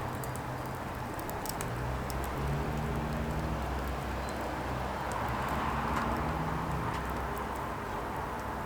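Firewood burning: a steady rush of flame with scattered sharp crackles and small pops.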